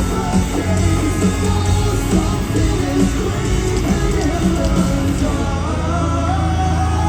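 Live heavy metal band playing loud through an arena PA, with distorted guitars, drums and a melodic line above.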